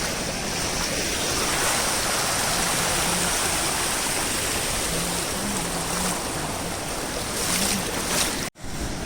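Rain-swollen monsoon stream and waterfall in full flow: a steady, loud rush of water. It breaks off for a moment near the end.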